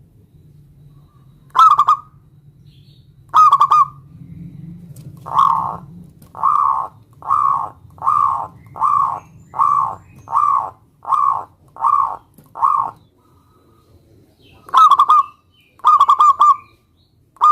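Zebra dove (perkutut) cooing: two short trilled coos, then a run of about ten evenly spaced coos, then more trilled coos near the end.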